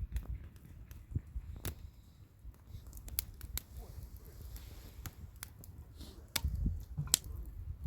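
Wood campfire crackling: irregular sharp pops and snaps over a low rumble of burning, which swells briefly near the end.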